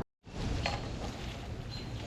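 Outdoor creek-side ambience: a steady hiss of wind or moving water, with a couple of soft clicks about half a second in and a short high bird chirp near the end. It starts after a brief dropout.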